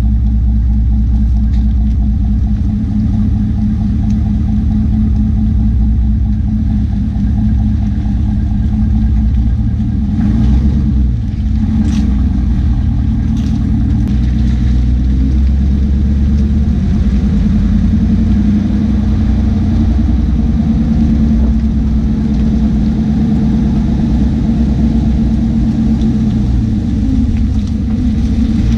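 2017 Chevrolet Silverado 1500's 5.3-litre V8 running through a muffler-delete exhaust, a Y-pipe into dual pipes with 5-inch tips: a steady deep drone, its pitch shifting briefly about ten seconds in and again near the end.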